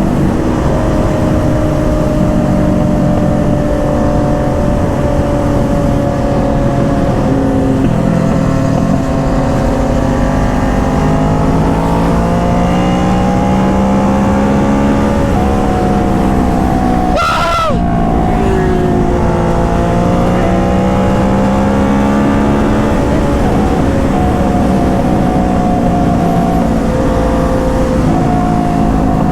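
Motorcycle engines running at a steady cruise, more than one engine note drifting slowly up and down in pitch over a loud rush of wind noise. A brief sharp noise cuts through about seventeen seconds in.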